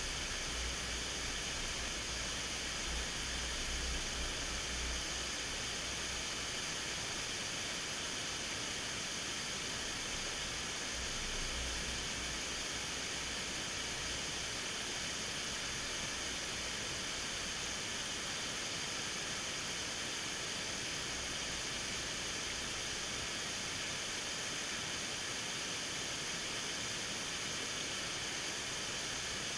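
Waterfall rushing: a steady, even roar of falling water, with a low rumble coming and going in the first twelve seconds or so.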